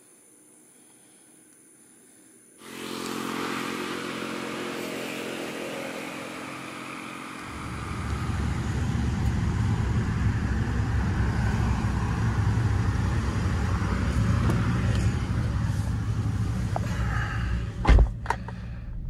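Quiet at first, then, about three seconds in, the steady hum of the Toyota Avanza's 1.3-litre four-cylinder engine idling, with a heavier low rumble from about seven seconds on. Near the end, a loud thud and a smaller knock as a car door is shut.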